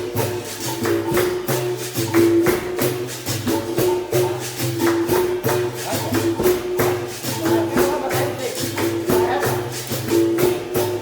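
Capoeira instruments playing a steady rhythm: a berimbau's notes switch back and forth between two pitches, over the rattle of a caxixi and the jingles of a pandeiro.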